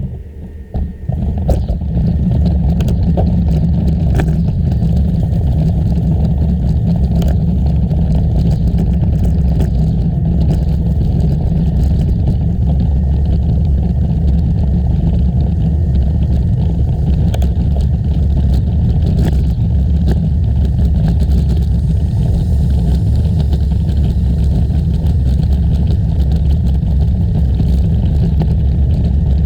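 Steady low wind rumble buffeting the microphone of a camera riding on a moving bicycle, with scattered small clicks and rattles. The rumble builds within the first two seconds as the bike gets under way.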